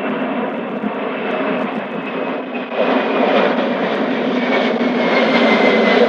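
Airbus Beluga's jet engines at takeoff power, a loud steady rush that grows louder and brighter about three seconds in, with a faint high whine slowly falling in pitch.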